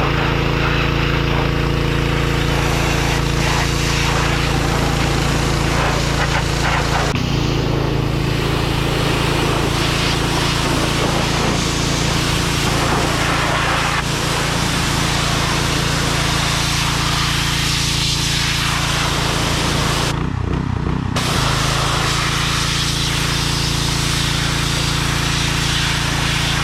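John Deere 1025R compact tractor's three-cylinder diesel engine running steadily, with a dense hiss over the engine note that briefly drops out about twenty seconds in.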